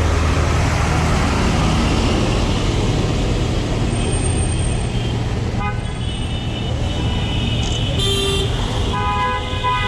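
Road traffic with engines running, and car horns honking several times through the second half, overlapping in long held blasts near the end.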